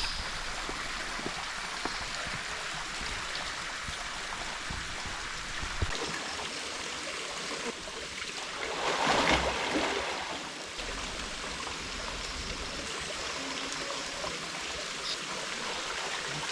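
Waterfall running: a steady rush of falling and splashing water, swelling louder for a couple of seconds about halfway through.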